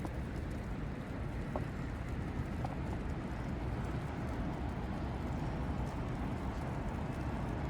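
Steady low rumble of city ambience, dominated by distant traffic, with an even hiss above it.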